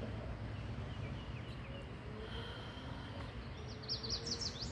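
Outdoor ambience with birds calling over a steady low rumble; near the end a bird gives a quick run of high chirps.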